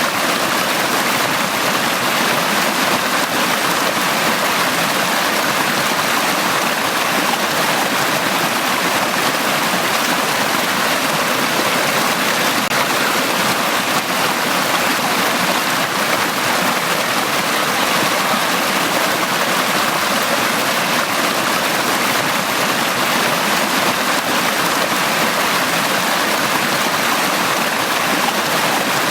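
Valley stream water rushing and splashing over rocks in a steady, unbroken flow.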